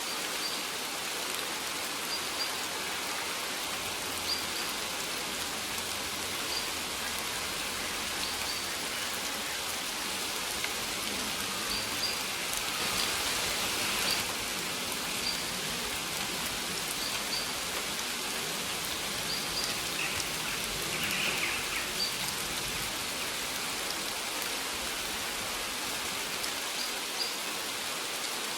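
Steady rain falling, an even hiss with faint short high ticks recurring every second or two.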